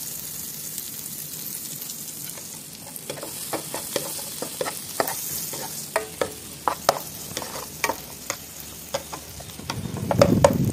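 Chopped garlic, shallots and curry leaves sizzling in melted butter in a non-stick pan. From about three seconds in, a wooden spoon stirs them with sharp clicks and knocks against the pan, and the sizzle grows louder near the end.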